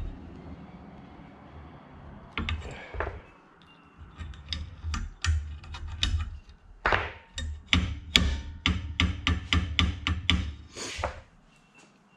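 Light hammer taps on small metal brake parts: a quick run of sharp, slightly ringing knocks, about three a second, starting about four seconds in and stopping near the end. A faint steady hum sits beneath.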